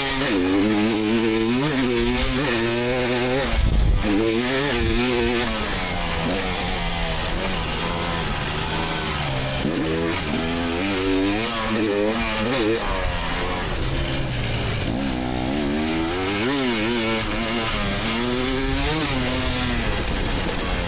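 2024 GasGas EX300's 300cc two-stroke engine revving hard, its pitch climbing and dropping again and again as the throttle is worked. There is a low thump about four seconds in.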